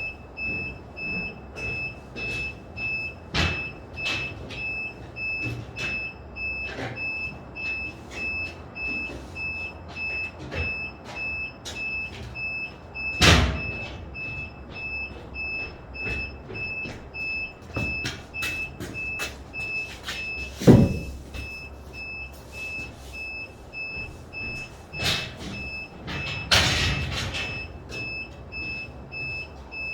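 Construction-site noise: an electronic warning beeper pulsing steadily throughout, with scattered knocks and thuds, the loudest about 13 and 21 seconds in.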